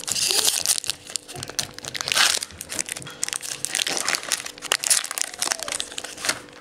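Crinkling and rustling of a trading card pack's wrapper being handled and opened, with dense irregular crackles; the loudest rustles come at the very start and about two seconds in.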